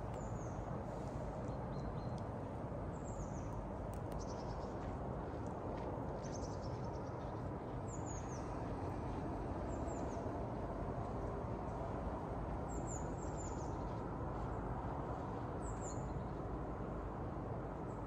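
Small birds giving short, high, falling chirps, singly or in quick pairs, every few seconds over a steady low rushing background noise.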